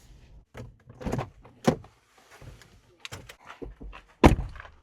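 Getting out of a parked car: a series of short clicks and knocks, then a car door shutting with a loud thunk about four seconds in.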